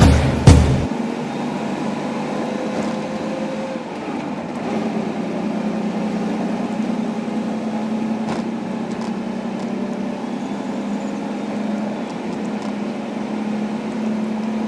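Truck engine running with a steady hum and a constant low tone. A fainter, higher tone fades out about four seconds in.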